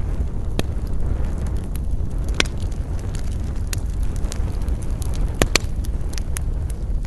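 Campfire crackling, with scattered sharp pops from the burning wood, the loudest a quick pair about two thirds of the way in, over a steady low rumble.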